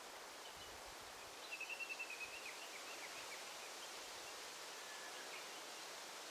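Daytime forest ambience: a steady hiss of rustling leaves, with a bird calling a rapid pulsing run of high notes about a second and a half in, then a few fainter bird notes.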